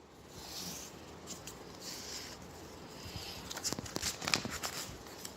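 Faint rustling with soft swells of hiss, then a scatter of small clicks through the second half.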